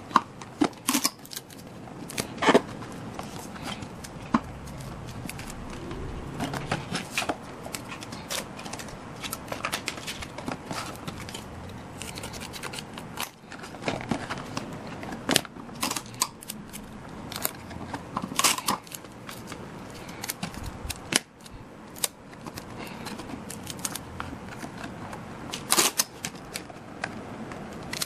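Scissors snipping and paper or card being handled, with irregular sharp clicks and rustles.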